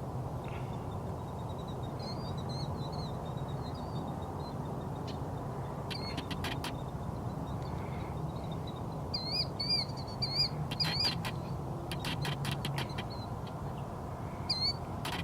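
Wild birds calling: high, wavering chirps, with a quick run of repeated notes about two-thirds of the way through and several short bursts of rapid clicks, over a steady low background rumble.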